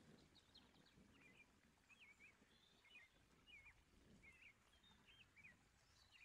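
Very faint bird chirps: a string of short twittering calls, about two a second, over a low background rumble.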